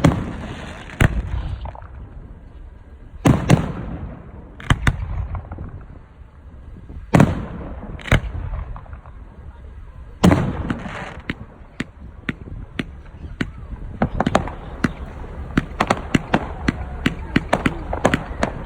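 Aerial firework shells bursting: four loud booms about three to four seconds apart, each followed by crackling. From about fourteen seconds in comes a quick run of sharp bangs, several a second.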